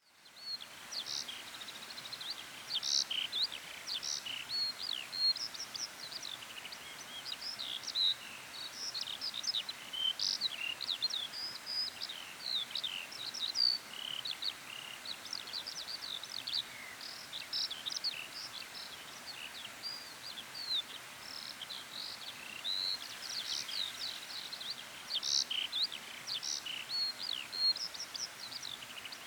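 A chorus of forest songbirds at dawn: many birds singing at once, with dense overlapping chirps, whistles and short trills over a faint steady background hiss.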